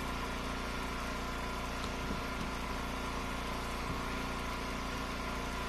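Gasoline engine of an Eastonmade Ultra wood splitter running steadily at an even speed.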